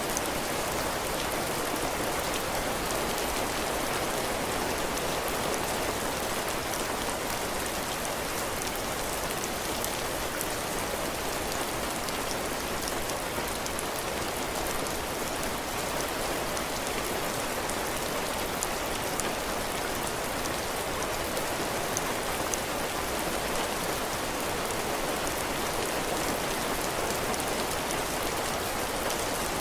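Heavy rain falling steadily on a porch roof and the ground: a dense, even hiss with scattered sharp drop taps.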